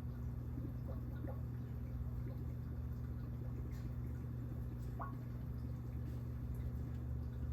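Aquarium equipment humming steadily, with faint water dripping and a few faint short blips.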